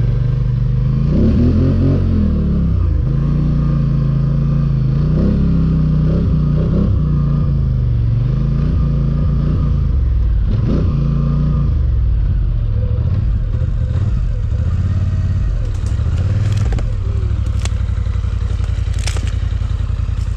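Polaris ATV engine revving up and down over and over as it works through deep snow, then settling to a steadier run, with a few sharp clattering knocks near the end.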